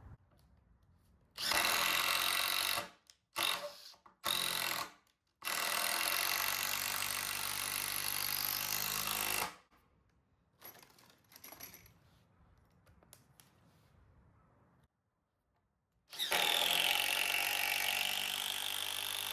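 Power drill driving long screws into timber: a run of about a second and a half, two quick blips, a longer run of about four seconds, then a pause with a few light knocks, and another long run near the end.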